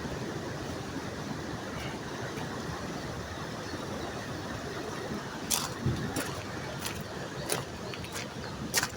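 Small waterfall's water rushing steadily. From about halfway through, a series of irregular sharp clicks sits on top of it.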